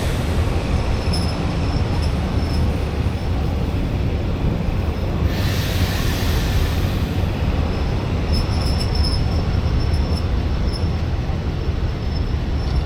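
Passenger train running along the track, heard from aboard: a steady low rumble of wheels and coach, with a rush of hiss about five seconds in and faint high wheel squeals a few seconds later.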